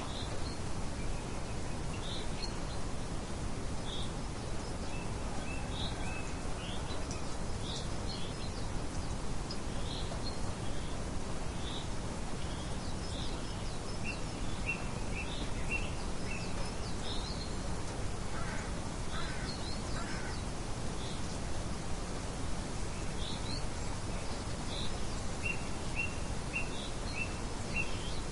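Steady low wind noise with small birds chirping throughout: short, high calls every second or so, some in quick runs of repeated notes.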